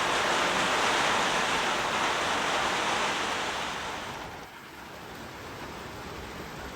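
Heavy rain falling as a dense, steady hiss. A little over four seconds in it drops to quieter, steady rain.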